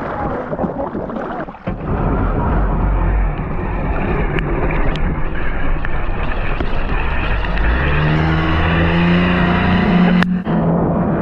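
Engine running at a steady pitch, coming in plainly about eight seconds in, over loud rushing noise.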